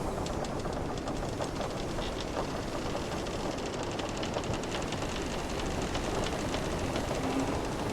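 Wooden sailing ship at sea: the ship's timbers creaking in runs of small, rapid clicks over a steady rush of ocean waves.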